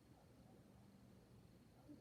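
Near-silent night forest with a faint steady hum; an owl's hoot starts just at the very end.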